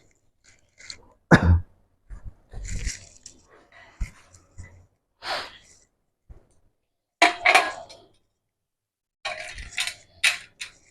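The thin sheet-steel top cover of a water heater being handled and pressed into place: scattered metallic knocks, scrapes and rustles with short pauses between them.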